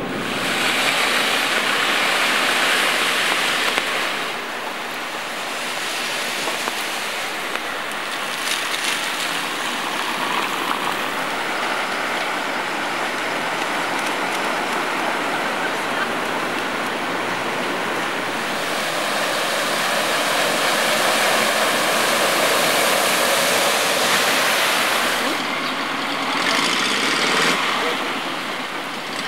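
Floodwater rushing and splashing on a street after heavy rain, a steady rush that shifts in tone several times.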